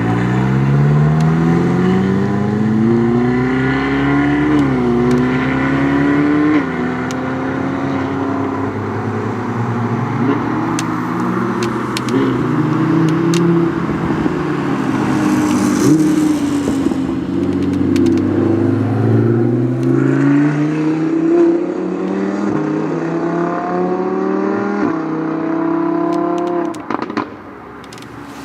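Supercar engines under hard acceleration, revs climbing and then dropping at each upshift. This happens several times as cars run through, with a drop in level near the end.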